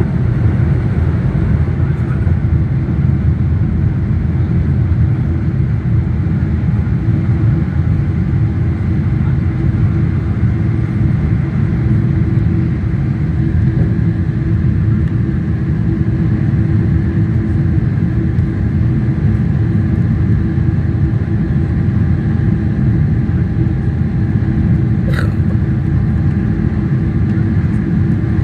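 Boeing 777-300ER's GE90 jet engines running with a steady, loud low rumble and a steady hum over it. A brief click comes about 25 seconds in.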